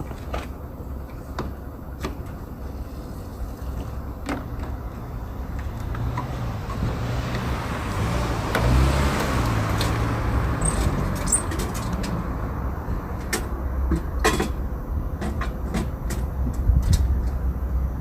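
Road and tyre noise from a Hyundai Porter II electric truck on the move: a steady low rumble, with no engine note. A louder rush of noise builds and fades about eight to eleven seconds in, with a few scattered clicks and knocks.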